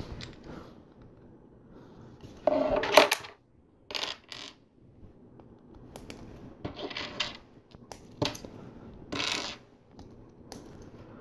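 Loose plastic LEGO pieces clattering and clicking in several short bursts, as parts are sorted out and picked up, with single clicks between.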